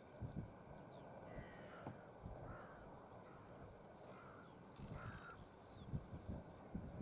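Faint bird calls, about four of them spread across a few seconds, over low wind rumble on the microphone.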